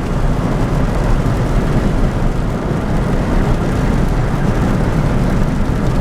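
Steady rumble of an old truck driving, heard from inside the cab.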